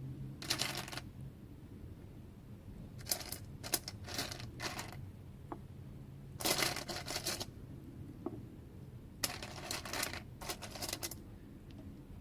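Small pieces of rainbow fluorite clicking and rattling together as they are handled and set down, in several short clattering bursts with a few single ticks between.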